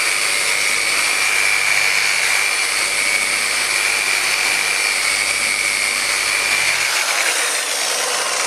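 Dynabrade random orbital polisher with a microfiber pad running steadily on car paint to remove sanding marks: a high whine over a hiss. About seven seconds in, it begins to wind down.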